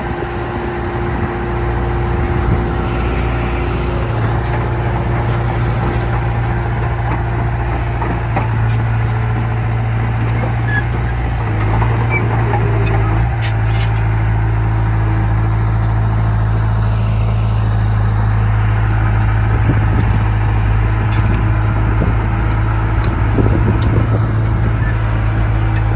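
Heavy diesel machinery engine running steadily under load, its low drone rising a little in pitch about 9 and 12 seconds in.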